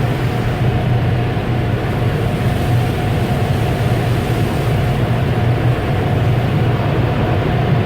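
Automatic car wash machinery heard from inside the car: a loud, steady rushing noise with a low hum that does not change.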